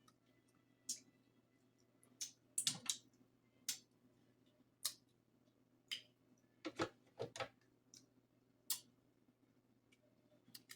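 Crab-leg shell being cut and cracked with scissors: a series of sharp snips and cracks at irregular intervals, a few coming in quick clusters, over a faint steady hum.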